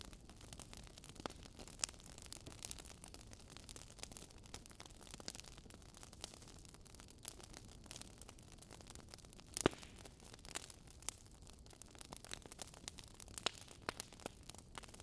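Burning wood fire crackling: irregular sharp pops and snaps over a low steady hiss, the loudest snap about ten seconds in.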